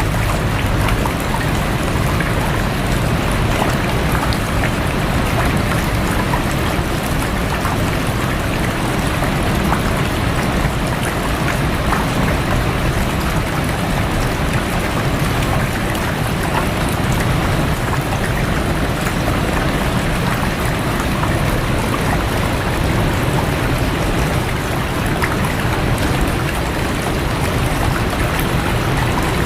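Rushing stream water with rain falling on it: a steady, even noise with strong low rumble, flecked with faint scattered drop ticks.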